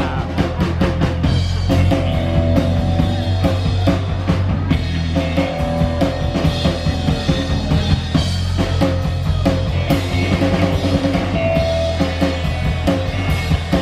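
Live rock band playing an instrumental passage: drum kit with bass drum and snare keeping a steady beat under bass and guitar.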